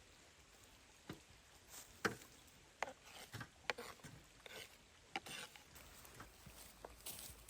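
A series of irregular light knocks and clicks, the loudest about two seconds in.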